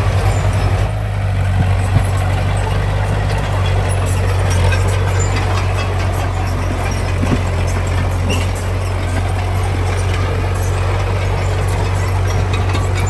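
Heavy diesel construction machine engine running steadily with a deep drone, with scattered metallic clatter and rattling over it.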